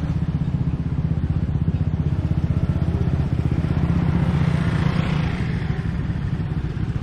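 Motorbike engine running close by with a fast, even pulse; the sound swells briefly around five seconds in.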